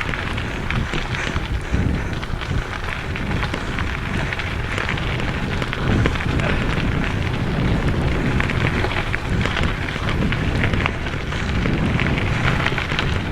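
Mountain bike tyres rolling over a dirt trail: a steady rush of wind and tyre noise, thick with fine crackles and small clicks.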